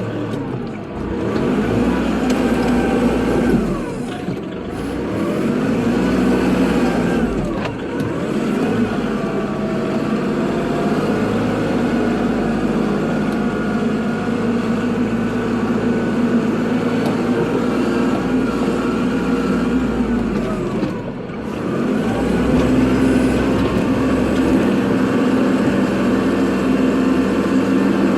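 Kubota tractor's diesel engine running under load, its revs dipping and climbing back several times as it works.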